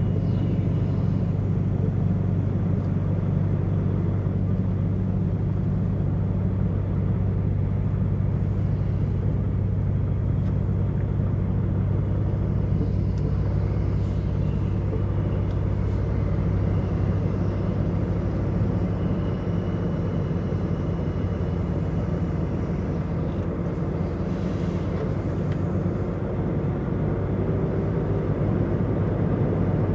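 DAF XF105.460 truck's PACCAR MX straight-six diesel running under way, a steady low drone heard from the cab, with a faint whine rising in pitch over the last few seconds as the truck picks up speed.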